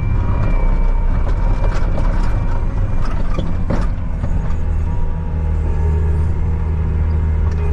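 Engine of a bucket machine running steadily under work, with a few knocks and clanks about two and three and a half seconds in.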